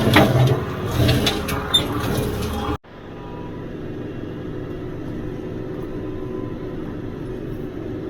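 Mowing machine's engine running: a loud, clattering run with knocks for the first few seconds, then a sudden cut to a steadier, quieter engine drone.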